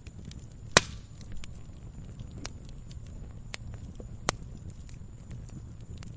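Burning wood fire crackling over a low steady rumble, with sharp pops from the logs, a loud one about a second in and another a little after four seconds.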